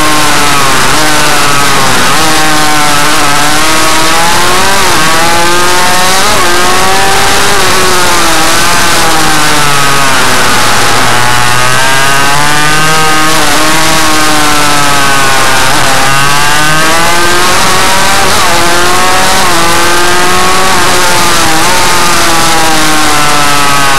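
Suzuki RM 85 two-stroke single-cylinder engine being ridden hard, loud, its revs climbing and dropping over and over every second or two.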